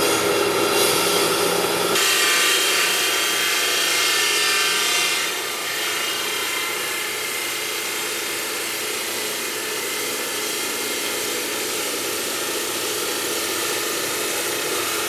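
Stone-working machinery in a marble factory running with a steady, harsh noise. The sound changes about two seconds in and turns a little quieter about five seconds in.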